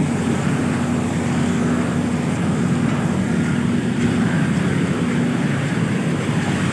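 A vehicle engine running at a steady speed, with a constant rush of road and wind noise.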